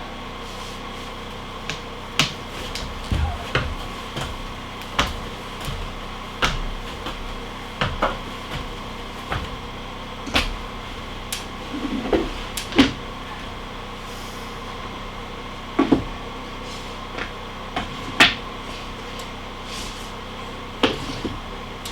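Scattered sharp knocks and clicks, irregular and a second or so apart, over a steady machine hum.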